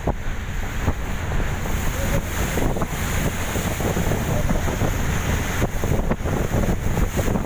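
Wind buffeting the microphone over the steady rumble of a fast passenger boat running at speed across the water.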